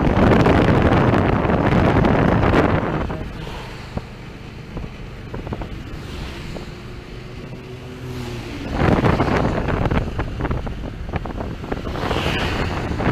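Wind buffeting a camera microphone on a moving vehicle, with a motor's rumble underneath. It is loud at first, drops about three seconds in, and surges again about nine seconds in and near the end.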